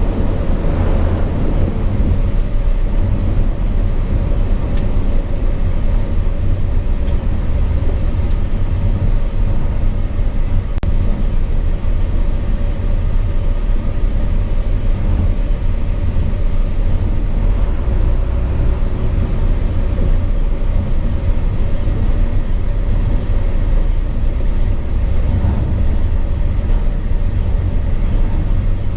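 Hino 500 FM 260 JD ten-wheel truck's diesel engine running steadily under way, heard from inside the cab with road and tyre noise.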